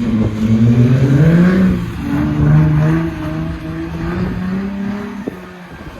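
Car engine revved high for a burnout. Its pitch climbs for about two seconds, dips, climbs again and holds, then falls away near the end.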